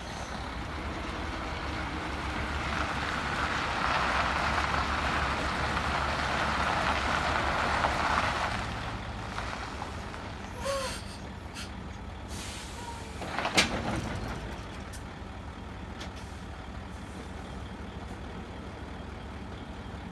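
Mercedes-Benz 4154 8x4 heavy-haul truck running steadily, with long hissing from its air brakes from about three to eight seconds in, short air sounds near eleven seconds and a sharp air-brake hiss near fourteen seconds.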